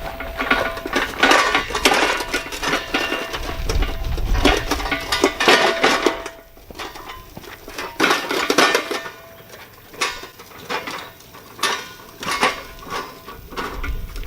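Metal parts clanking and clattering against each other as they are handled and moved, in clusters of knocks with a faint ringing tone under them.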